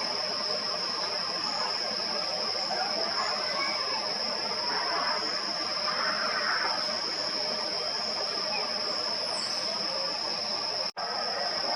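Steady outdoor background noise: a broad even rush with a constant high-pitched whine over it. The sound drops out for a split second near the end.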